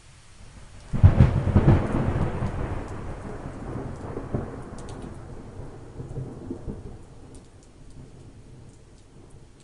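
A thunderclap breaks suddenly about a second in, then rumbles and slowly dies away over the next several seconds, over steady light rain. Faint raindrop ticks can be heard in the later part.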